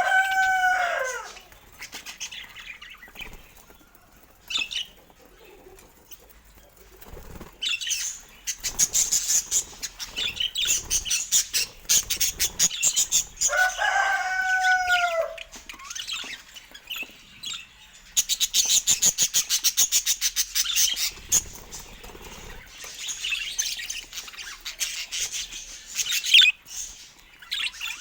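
Birds calling: a drawn-out call that holds its pitch and then falls away, about a second and a half long, comes at the start, midway and again at the end. Between these calls there are long stretches of fast, high chattering and clicking.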